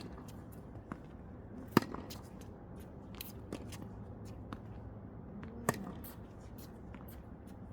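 Tennis balls struck by rackets during a drill: two loud, sharp hits, one about two seconds in and one near six seconds, among many fainter sharp hits and ball bounces.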